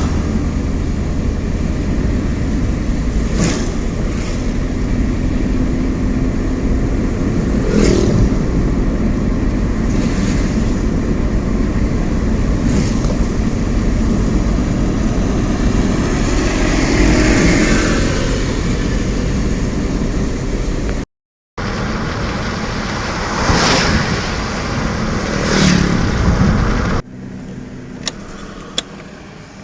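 Vehicle road noise: a steady low rumble and rush, with passing vehicles whooshing by every few seconds. The sound cuts out for a moment about two-thirds of the way through and is much quieter near the end.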